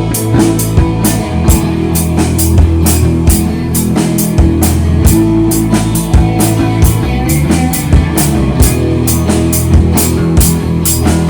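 Live rock band playing an instrumental passage of the song: a steady drum beat with sharp hits about three a second over sustained bass notes, with no singing.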